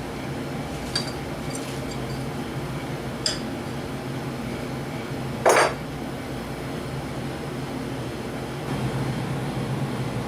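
A few light clicks and one louder metallic clink about five and a half seconds in, over a steady low hum.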